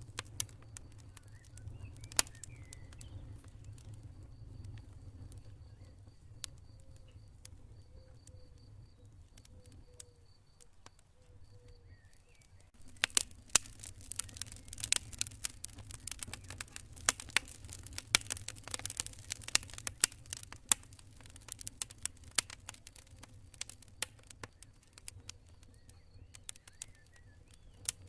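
Campfire crackling, with sharp pops and snaps over a low steady rumble of the flames; the popping grows denser about halfway through. A cricket chirps in a steady high pulsing rhythm during the first half.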